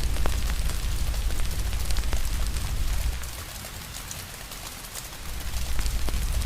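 Steady rain hiss with a wood fire crackling and popping in short sharp snaps over a low rumble; the rumble eases off for about two seconds midway, then returns.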